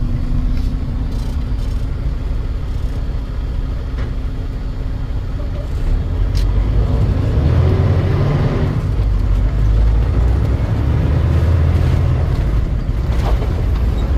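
Truck engine and road noise while driving, a steady low rumble that grows louder about six seconds in.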